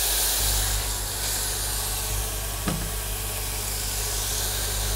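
Onion paste sizzling in hot oil in a pressure cooker, a steady hiss as it is stirred with a silicone spatula. A steady low hum sets in just under half a second in, and there is one light knock a little past halfway.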